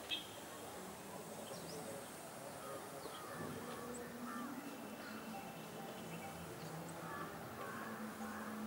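Faint outdoor ambience of birds calling: short, quick chirps and one louder call right at the start, over a low, steady distant hum.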